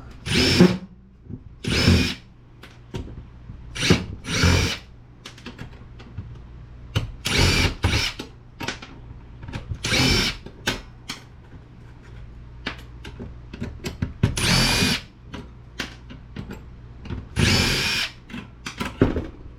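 Handheld power drill/driver run in about ten short bursts of half a second to a second each, as when backing out screws during disassembly.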